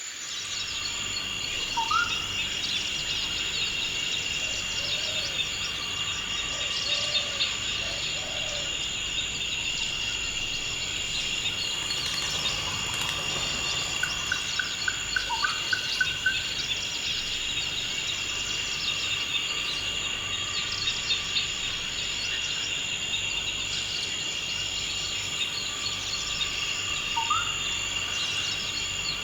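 Forest ambience: a steady high insect drone of crickets, with birds calling over it. A short rising call comes three times, and a run of quick repeated notes comes about halfway.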